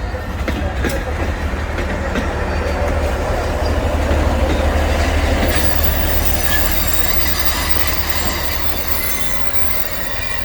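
Alishan Forest Railway Hinoki train pulling into a station: a heavy low rumble that grows loudest about halfway through, then high wheel squeal on the rails as it slows.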